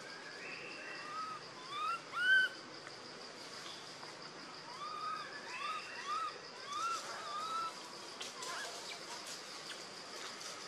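Birds calling: short whistled notes that rise and fall, coming in loose runs, loudest about two seconds in. A steady high insect drone runs underneath.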